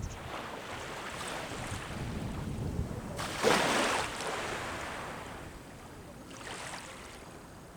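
Sea waves breaking and washing on the shore, the loudest wave about three and a half seconds in and a smaller one near the end, with some wind buffeting the microphone.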